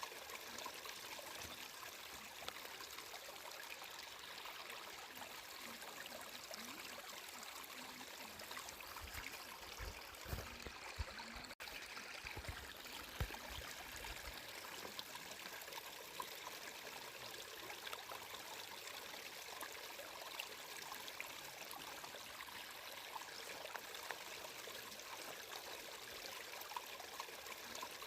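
Flowing water running and trickling steadily, like a small stream. A few low bumps come around the middle, along with a momentary dropout in the sound.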